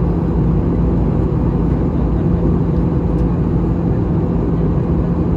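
Airbus A320 in flight: a steady drone of engine and airflow noise with a constant low hum.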